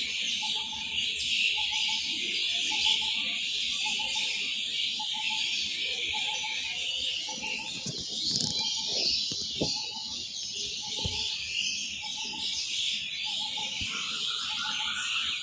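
Many small birds chirping together in a dense, unbroken chatter, with a short lower call repeating over and over beneath it.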